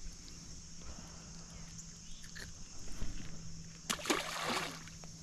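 A short splash in the water about four seconds in, lasting under a second, over a steady high-pitched drone and a faint low hum.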